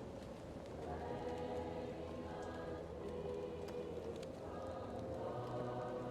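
A choir singing slow, sustained chords, muffled as if from another room, with a fireplace crackling faintly in small, scattered pops.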